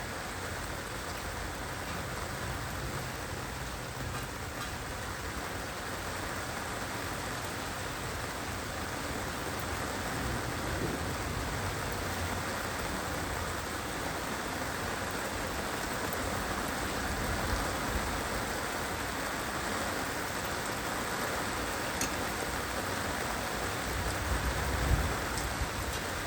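Heavy rain falling steadily, a dense even hiss of drops, with a short low rumble near the end.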